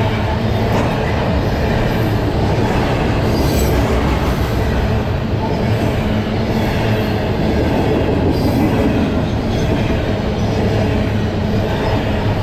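A train passing close by: a steady, loud rumble and clatter of steel wheels on the rails, with a few brief high wheel squeals.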